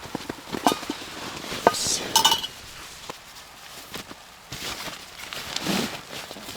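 Light clinks and knocks of hard objects being handled, with one brief ringing clink a little over two seconds in.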